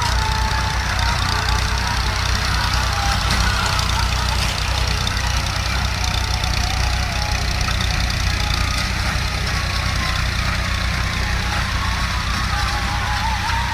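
Fiat 480 tractor's three-cylinder diesel engine running steadily under heavy load while pulling a reversible plough through hard ground.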